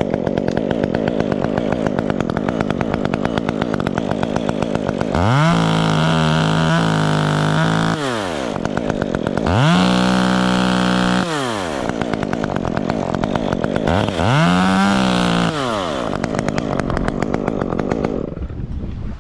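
Two-stroke chainsaw idling, revved up to high speed three times, each time holding briefly before falling back to idle. Its sound drops away about a second before the end.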